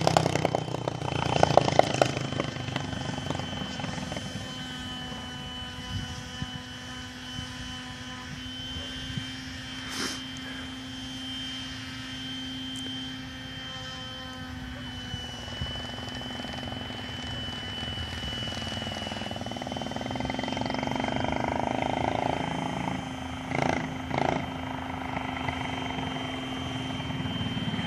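Predator 212cc single-cylinder four-stroke engine on a motorized bicycle, running at a steady speed. It fades as the bike moves off, then grows louder again near the end as it comes back.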